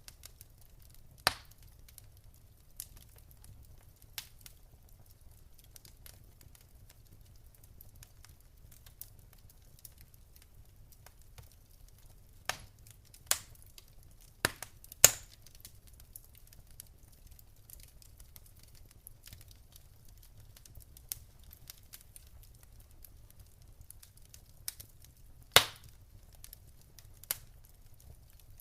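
Wood fire crackling in a fireplace: sharp, irregular pops and snaps every few seconds, with a cluster about halfway through and another near the end, over a low steady rumble.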